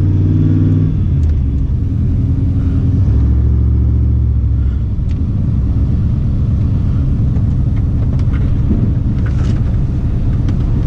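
Truck engine and road noise while driving, a steady low engine drone whose pitch shifts about a second in and again near the middle.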